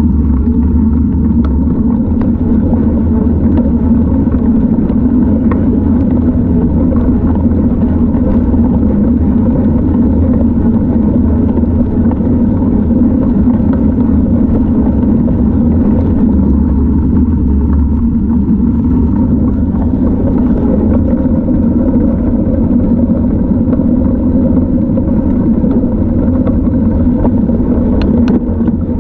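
Loud steady rumble of wind and rolling road noise on the microphone of a moving bike, with a couple of sharp clicks near the end.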